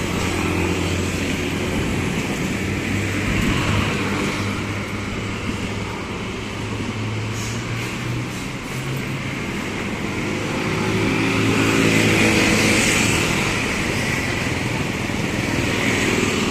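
Street traffic: a steady hum of motor vehicle engines and tyre noise, with one vehicle passing louder about eleven to thirteen seconds in.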